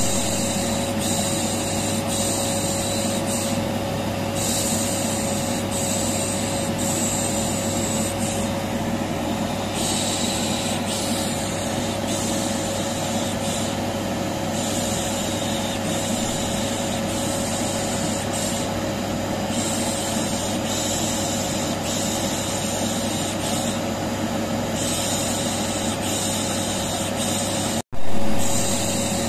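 Vacuum cleaner running steadily with a constant hum, overlaid with repeated 'shh' shushing that comes and goes every second or two. The sound cuts out for an instant near the end and starts again.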